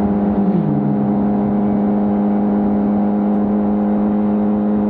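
Honda CBR600RR's inline-four engine running at steady revs through its stock exhaust, its pitch held constant.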